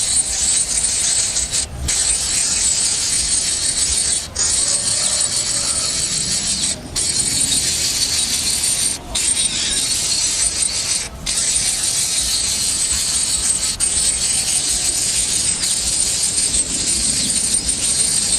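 Steady, dense high-pitched buzzing like an insect chorus, briefly cut out five times in the first two-thirds.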